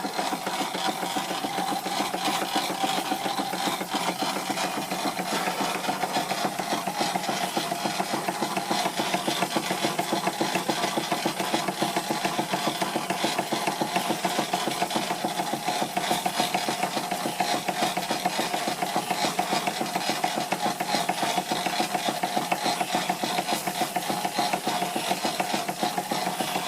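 Stuart Victorian model steam mill engine running fast and steady, driving a Wilesco fairground model through a right-angled gear that gives a steady whirring rasp with a fast even ticking. The gear is the noisy part of the drive, already as quiet as it can be adjusted.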